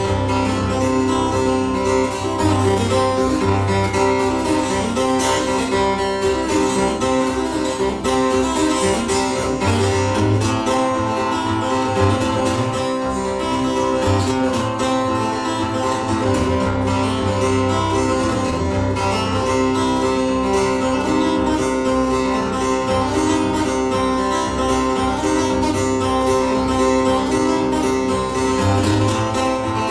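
Acoustic guitar playing an instrumental piece live: picked notes ringing over recurring low bass notes.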